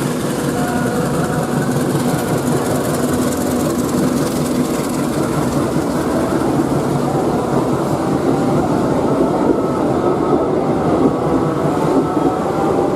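The KA Bengawan economy passenger train passing through at speed, a loud steady noise of coaches and wheels running on the rails.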